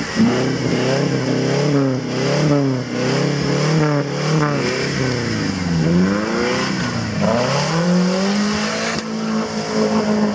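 Engine of a Suzuki off-road 4x4 revved in quick repeated blips. From about seven seconds in it rises into one long rev that is held high until the end.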